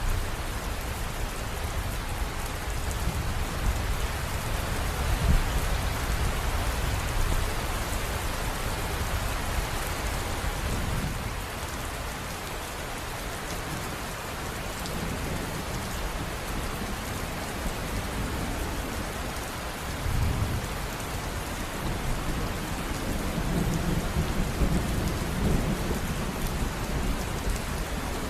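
River water running: a steady rushing, with a low rumble that swells and fades.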